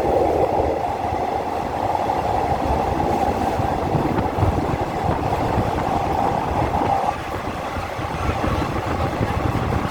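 Passenger train running on the rails, a steady rumble with a whine over it that drops away about seven seconds in.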